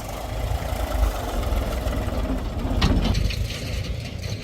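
Heavy diesel engine running steadily at low revs, with a brief, louder clatter about three seconds in.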